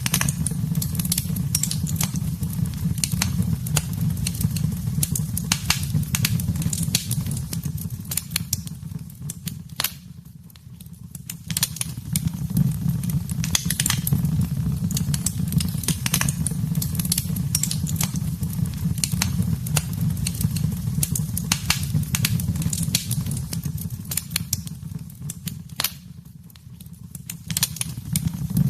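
Wood fire burning in a fireplace: a steady low rumble of flames with dense, irregular crackles and pops. It drops quieter for about a second twice, around a third of the way in and again near the end.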